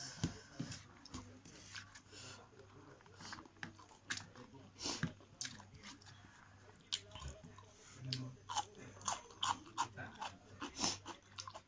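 A person chewing and eating meat curry with rice close to the microphone: irregular wet mouth clicks, smacks and crunches.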